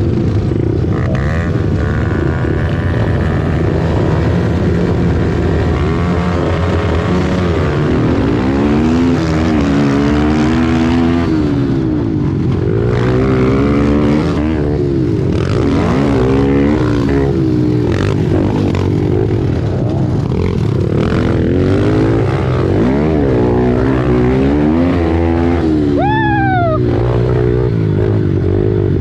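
Several pit bike single-cylinder engines racing together, their pitch rising and falling over and over as riders rev up and shift through the gears. Near the end one engine revs up sharply and drops back.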